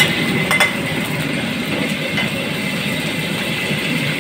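Food frying in a pan of hot oil: a steady sizzle, with a couple of sharp clicks about half a second and two seconds in.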